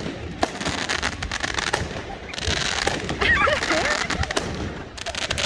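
Fireworks popping and banging repeatedly, with voices calling out in high gliding tones around the middle.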